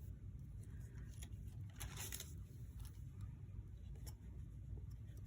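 Faint rustling and light clicks of thick paper pages and card being handled and turned in a handmade junk journal, with a slightly longer rustle about two seconds in, over a low room hum.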